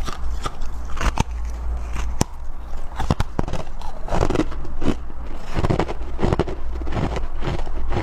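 Close-miked biting and chewing of powdery freezer frost, a run of irregular soft crunches and crackles, coming thicker in the second half.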